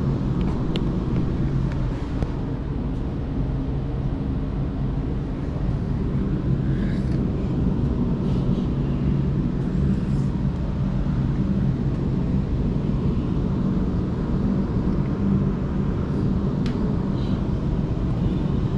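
Steady running rumble heard from inside a moving electric suburban passenger train carriage, with a low hum and a few faint clicks along the way.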